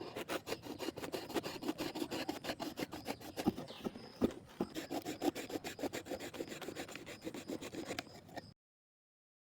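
Fast, repeated scraping strokes of hand work on the trap's material, many strokes a second, like rasping or sawing. They cut off suddenly into dead silence near the end.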